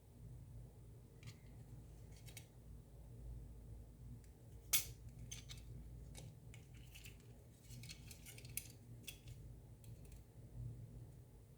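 Faint, irregular light metallic clicks and ticks of a small hand tool working the Xbox controller's bent metal battery contacts, with one sharper click about five seconds in.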